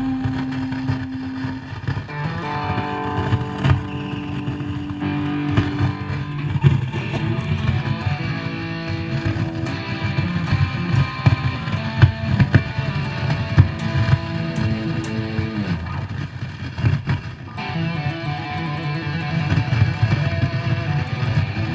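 Electric guitar played through a Line 6 X3 multi-effects processor: sustained notes and chords over a dense low layer, with a few sharp clicks cutting through and a brief dip in the sound about seventeen seconds in. It is offered as a demonstration of a sound problem with the unit.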